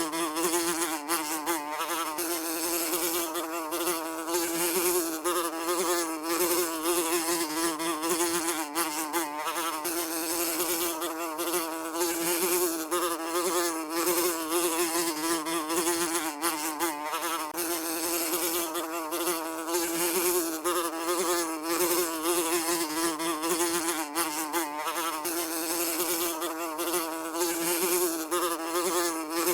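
A fly buzzing continuously, its drone wavering slightly in pitch.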